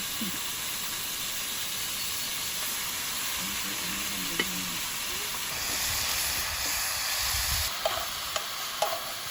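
Food sizzling in a hot pan, a steady hiss that swells louder for a couple of seconds past the middle, with a few light clicks.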